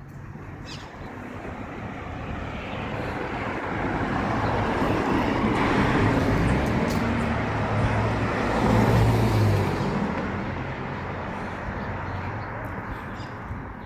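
A motor vehicle driving past: engine and tyre noise grows louder, peaks about six to nine seconds in, then fades away.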